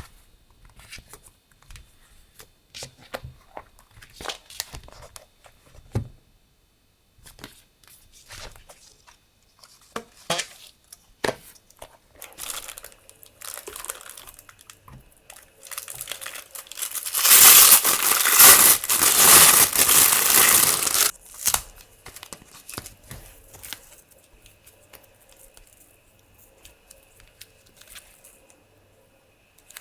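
Light rustling and handling clicks of packaging, then a loud tearing and crinkling for about four seconds past the middle as packaging is torn open.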